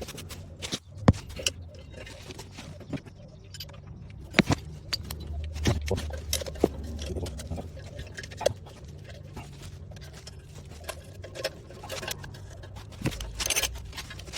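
Scattered clicks, clinks and knocks of hand tools and metal parts being handled during mechanical work on a car, over a steady low hum.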